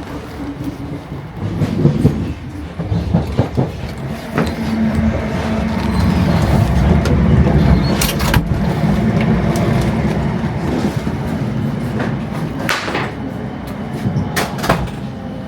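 Electric suburban train heard from on board while running: a steady rumble of wheels and motors, with a few sharp clicks and knocks from the wheels crossing rail joints and points.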